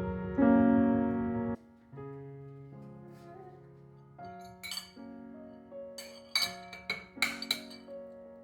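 Soft piano background music, with a run of about half a dozen sharp clinks of kitchenware being handled and set down on a shelf in the second half.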